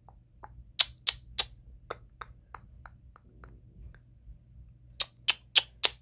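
A bird loose in the house giving short, sharp chirps: a run of them about three a second that fades out after two or three seconds, then four loud ones close together near the end.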